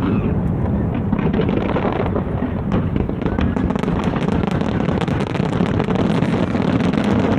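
Aerial fireworks going off without a break: a steady low rumble of overlapping booms under rapid crackling, the crackle thickening after about two seconds.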